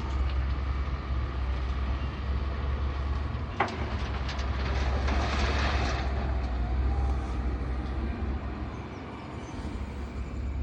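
A heavy diesel engine running with a steady low rumble, as of earth-moving machinery dredging silt. A sharp knock comes about three and a half seconds in, followed by a louder rush of noise for about two seconds. The rumble fades about eight seconds in.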